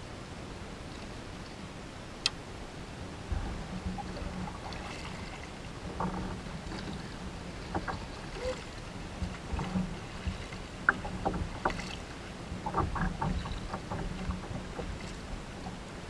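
Kayak on the water: irregular knocks and splashes of paddling and of the hull starting about three seconds in, over a steady low hum.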